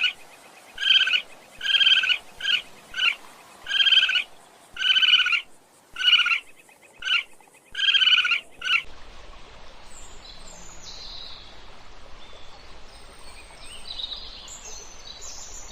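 A bird calling in a run of about nine short, loud, pitched calls with gaps between them. About nine seconds in, the calls stop and faint high chirping of small birds continues over a steady outdoor background hiss.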